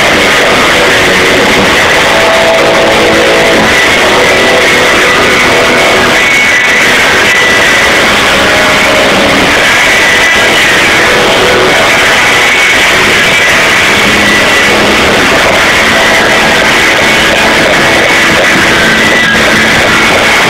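Live rock band playing, with electric guitars and drums, recorded from the crowd through an overloaded camera microphone: loud, distorted and muddy.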